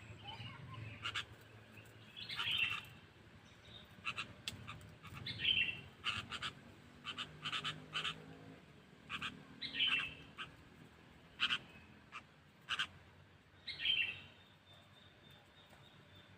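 Sooty-headed bulbul calling: repeated short, sharp chips with a louder call phrase about every three to four seconds.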